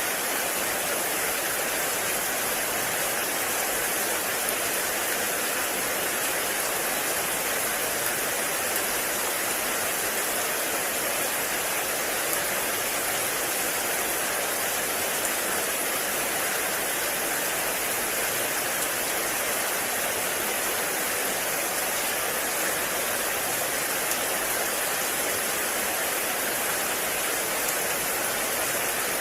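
Heavy rain falling in a forest: a steady, even hiss of water with no let-up.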